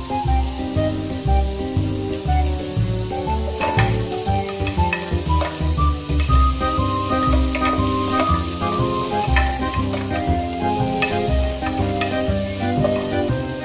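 Chopped onion and garlic sizzling in oil in an aluminium pot, stirred with a wooden spatula that knocks against the pot now and then, under background music with a steady beat.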